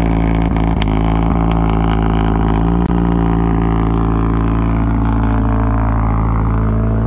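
Mazdaspeed 3's turbocharged 2.3-litre four-cylinder idling steadily, with no revving and no blow-off valve release.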